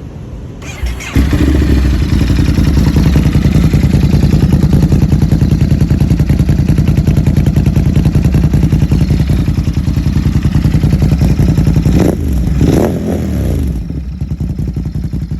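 Ducati Monster's V-twin engine coming in about a second in and running loud with a fast, even pulsing beat. It is revved once about three-quarters of the way through, then runs quieter near the end.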